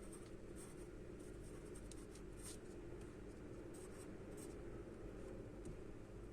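Faint charcoal strokes scratching on paper, a run of short strokes that thins out after about four and a half seconds, over a steady low hum.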